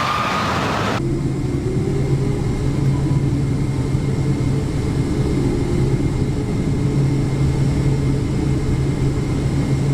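Jet airliner engine whine rising in pitch, which cuts off abruptly about a second in to a steady low engine drone with a strong hum.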